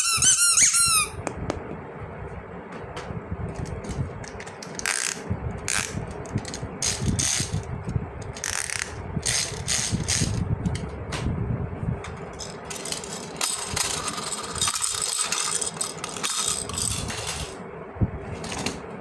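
Plastic toy pieces and packaging being handled, rattling, clicking and crinkling irregularly. A short high warbling tone sounds in the first second.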